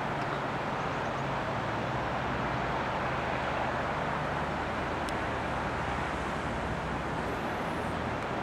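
Floodwater of the Blacksmith Fork River rushing through a new channel it has cut through its bank: a steady, even rush, with a faint low hum underneath.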